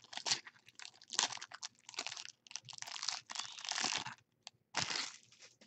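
Foil trading-card pack being torn open and crinkled by hand, in a run of crackling bursts with short pauses between them.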